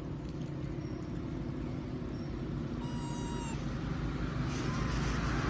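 A monkey's high-pitched crying call, once about three seconds in and lasting under a second, then a faint short squeak near the end: a begging cry for food. Under it, a steady low rumble grows louder toward the end.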